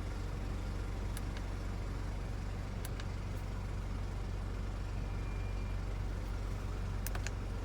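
Land Rover Discovery Sport's 2.0 TD4 four-cylinder diesel idling steadily, heard from inside the cabin as a low hum, with a few light clicks.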